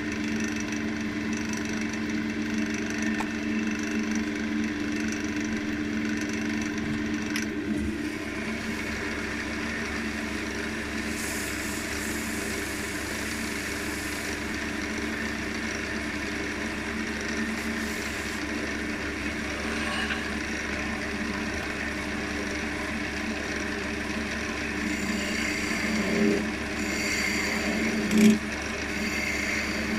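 Wood lathe motor running with a steady hum as a stick of wax is held against the spinning elm piece. There are a few short, louder scrapes near the end.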